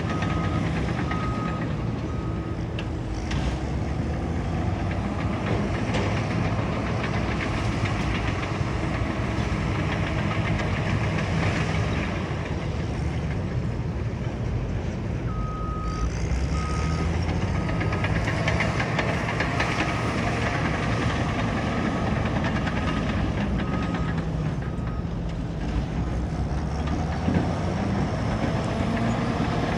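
Caterpillar bulldozer's diesel engine running under load with its tracks clanking. A reversing alarm beeps about once a second at the start and again from about halfway in.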